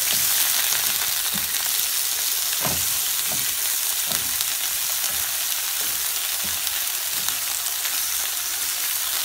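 Sliced sweet peppers sizzling in hot grapeseed oil in a frying pan, a steady hiss. A spatula stirring them scrapes and taps against the pan now and then.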